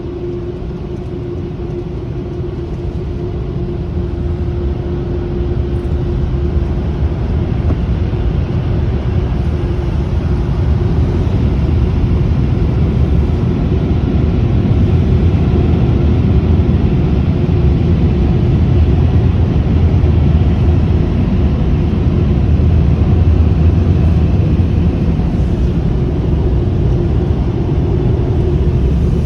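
Ryko automatic car wash dryer blowers running: a loud, steady rush of air with a low rumble and a steady hum, growing louder over the first several seconds.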